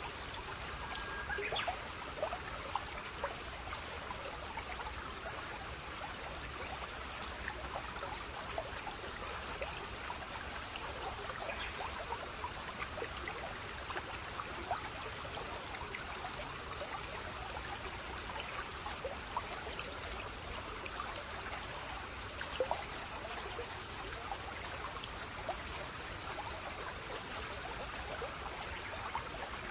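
Running water of a small stream, trickling and splashing steadily, with many small drips and splashes on top.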